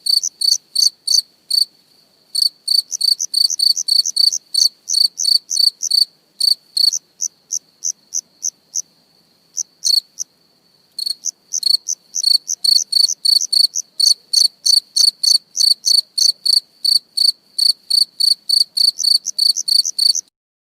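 Cricket chirping: a long run of short, high chirps, about three to four a second, broken by two brief pauses, with a faint steady trill beneath in the middle. It stops abruptly near the end.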